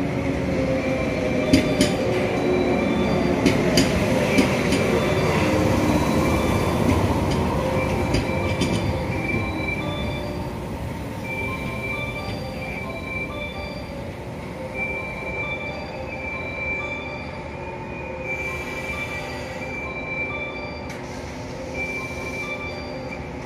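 A train moving along the Sanyo Main Line through Onomichi Station, its wheels rumbling with a few sharp clacks over the rail joints. The rumble is loudest about five or six seconds in and then slowly fades. High wheel squeals break off and return throughout.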